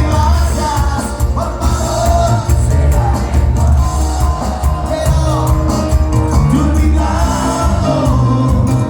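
Live band music played loudly, with a heavy, steady bass beat under a melody line and singing.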